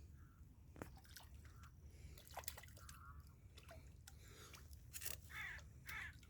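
Faint sharp cracks and crunches, then crows cawing several times near the end.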